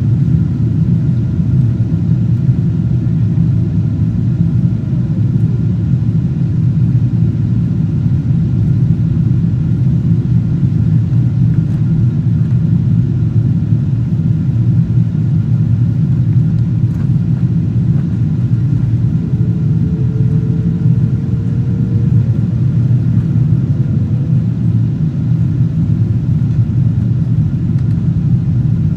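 Steady cabin rumble of a Boeing 777-200ER in flight, from its engines and the airflow, heard from an economy window seat. A faint whining tone drops in pitch about five seconds in, and another rises slowly around twenty seconds in.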